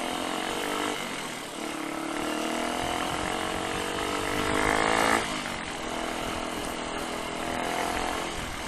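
Rusi KR125 motorcycle engine accelerating under way, its pitch climbing through the gears: a short rise, a drop about a second in at a gear change, a long climb to its loudest about five seconds in, then a sudden drop at the next shift and steadier running after.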